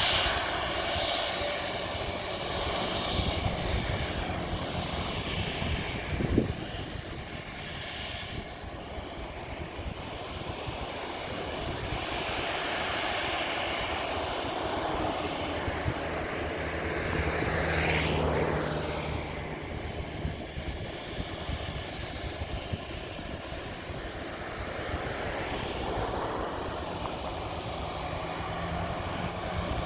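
Jet engines of a Boeing 737-800 running as the aircraft moves relative to the listener: a steady rush of noise whose pitch pattern sweeps and that swells to a peak about two-thirds of the way through, then eases off. A single sharp knock sounds about six seconds in.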